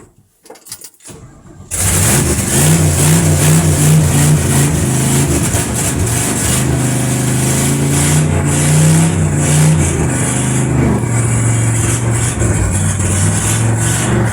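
Chevrolet C10 pickup's carbureted engine catching on a cold start about two seconds in, then running on loudly with its pitch stepping down a few times. Heard from inside the cab.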